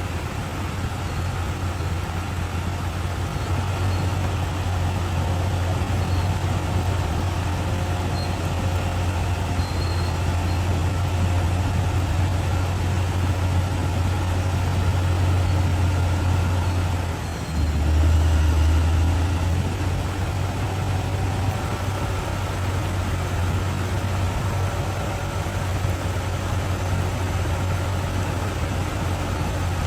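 Bulldozer's diesel engine running steadily with a low drone. A little past halfway it dips briefly, then comes back louder and deeper for about two seconds before settling.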